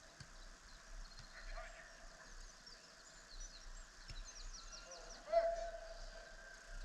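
Birds singing in quick runs of short falling chirps, with a short loud call, like a distant shout, about five seconds in.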